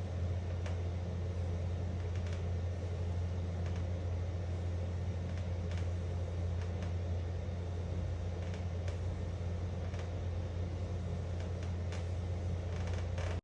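A steady low hum under an even hiss, with faint scattered clicks, like room or machine noise.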